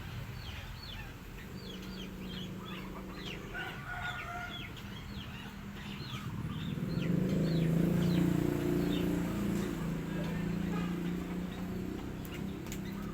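Birds calling: many short, quick chirps, joined about halfway through by a louder, low-pitched drawn-out call that holds for several seconds.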